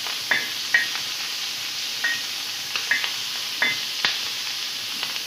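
Onion and capsicum pieces sizzling on a hot flat iron griddle while a metal spatula stirs them, with several sharp scrapes and clinks of the spatula against the pan over a steady frying hiss.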